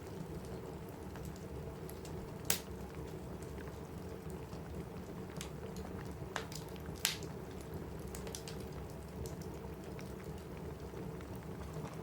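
Steady rain drumming on a cabin roof under the crackle of a wood fire in a fireplace. Scattered sharp pops from the fire stand out, the loudest two about two and a half seconds in and about seven seconds in.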